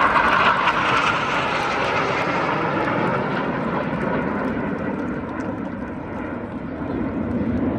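Aircraft engine noise from a fly-past: a loud rushing sound that fades away over the first few seconds, leaving a lower drone that builds again near the end.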